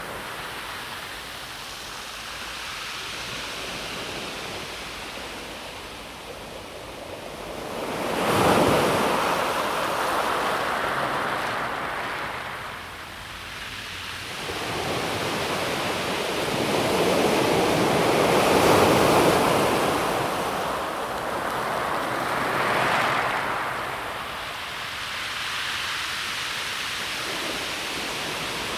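Calm sea waves washing in over a pebble beach, each one swelling and then fading away. One wave breaks sharply about eight seconds in, a longer and louder wash follows a few seconds later, and another comes shortly after.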